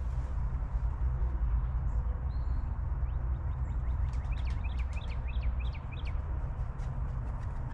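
A small bird chirping a quick run of short, high notes about four seconds in, over a steady low rumble.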